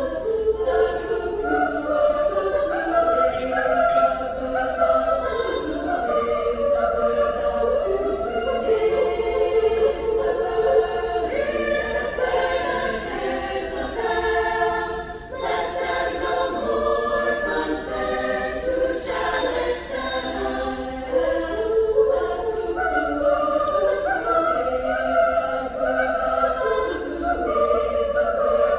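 Female choir singing unaccompanied, several voice parts moving at the same time in polyphony.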